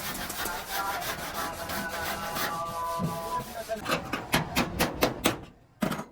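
Steady abrasive rubbing and scraping on a truck part for a few seconds, then a quick run of about seven sharp taps, roughly five a second, and one last tap.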